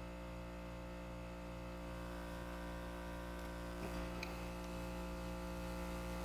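Steady electrical hum from running shop equipment, with a couple of faint clicks about four seconds in.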